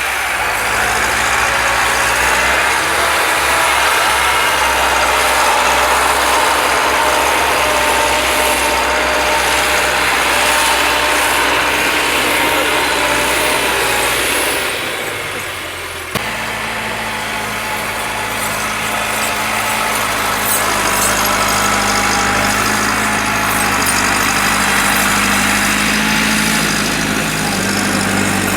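Massey Ferguson 375 tractor's diesel engine running steadily. About halfway through the sound dips briefly and there is a sharp click, after which the engine note is different.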